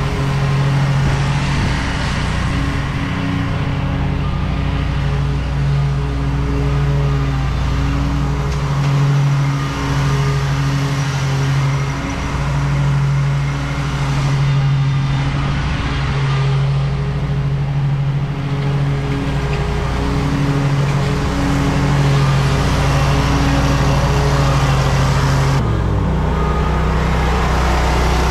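Lawn mower engine running steadily under load while mowing, its tone wavering as it works, dropping to a lower pitch near the end.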